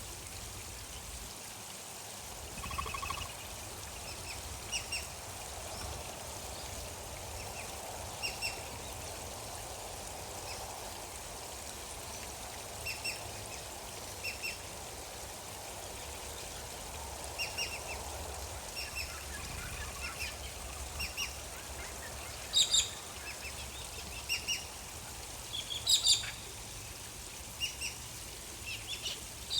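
A bird calling in short, high chirps, mostly in pairs, every second or two and loudest near the end, over the steady rush of flowing water.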